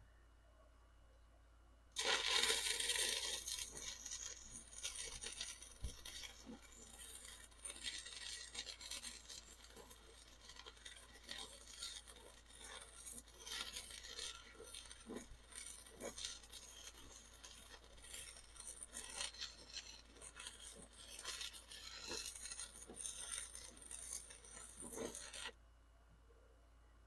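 Stick-welding arc crackling as an electrode runs a bead on rusty scrap metal: it strikes suddenly about two seconds in, crackles continuously with uneven loudness for over twenty seconds, and cuts off abruptly near the end.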